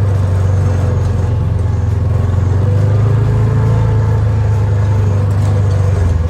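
John Deere tractor engine running steadily under load while pulling a brush hog mower through brush and grass.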